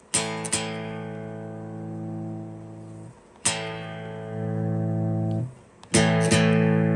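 Electric guitar through a Movall Jumpspace overdrive pedal with its drive knob turned all the way down, giving a mostly clean, boosted tone. Chords are strummed and left to ring, three times: at the start, about three and a half seconds in, and near the end.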